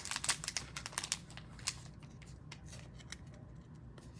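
Trading cards and their packaging being handled: a quick flurry of crinkles and clicks for about the first second and a half, then scattered lighter ones.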